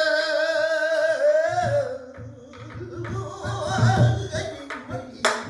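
A pansori singer holds a long, loud sung note with a wide vibrato that slides down about two seconds in, then goes on more softly over low beats on the buk barrel drum. A sharp knock comes near the end.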